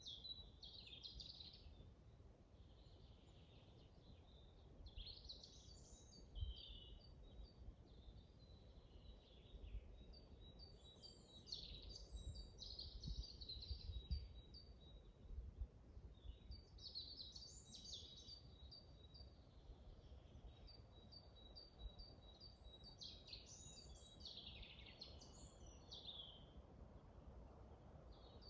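Songbirds singing in a forest, faint: several warbling phrases a few seconds apart, with a thin steady high note and quick repeated ticks between them, over a low rumble of wind.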